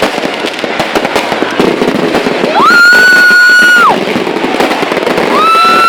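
Fireworks crackling and popping without a break, with crowd noise. A loud horn blows one steady note for just over a second past the middle, and a second note starts near the end.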